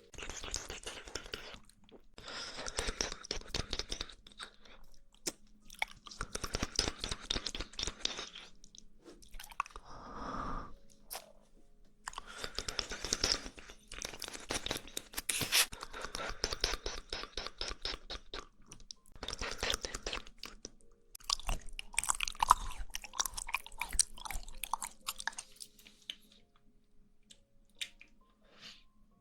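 Close-miked wet mouth sounds of jelly being chewed and squished. They come in about five bursts of dense crackly clicks, each a few seconds long, with short pauses between.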